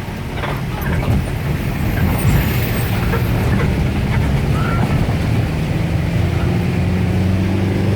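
Heavy truck engine running, a low rumble that settles into a steady, even engine note about two-thirds of the way through.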